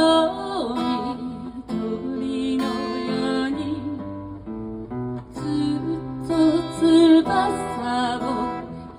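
A slow song sung to acoustic guitar: held, wavering sung notes over strummed and plucked guitar chords, easing off briefly midway.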